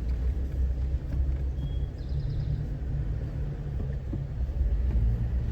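Jeep engine running at low speed with a steady low rumble while crawling over rough off-road ground.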